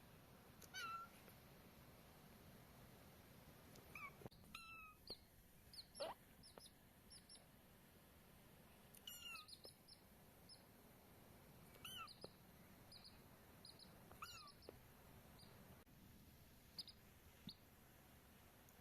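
A very young kitten mewing about five times, short calls that fall in pitch, with a chick's short high peeps scattered between them.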